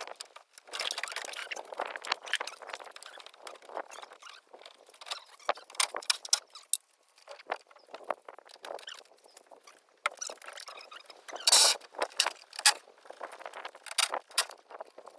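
Irregular clicks, knocks and rustling, with a louder clattering burst about eleven and a half seconds in.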